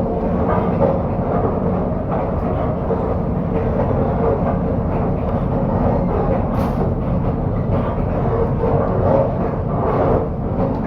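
Moving train carriage: a steady rumble and rattle with a constant hum.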